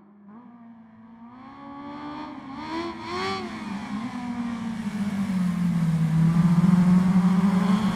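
Kawasaki Ninja H2 superbike engine, starting faint and growing steadily louder, with a short rev about three seconds in. It then settles into a lower, strong note and cuts off suddenly at the end.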